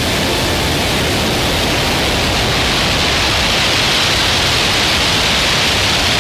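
A steady, loud rushing noise like static, with no pitch or rhythm.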